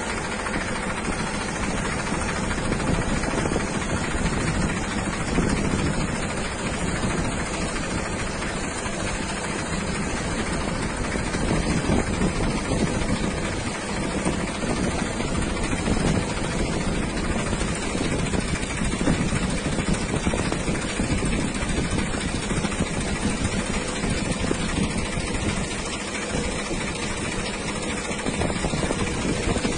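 Windstorm wind blowing hard in gusts: a dense rushing noise with heavy low rumble from wind hitting the microphone, swelling and easing every few seconds.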